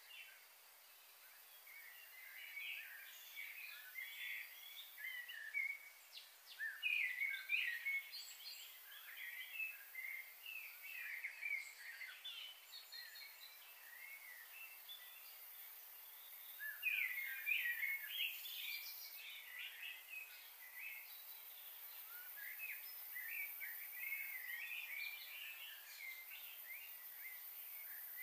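Small birds chirping and twittering in scattered bursts of short, high calls, busiest a quarter of the way in and again a little past halfway.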